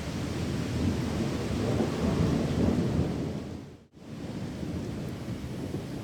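Heavy rain with a low rumble of thunder that swells over the first few seconds. The whole sound fades out briefly just under four seconds in, then the rain comes back steady with less rumble.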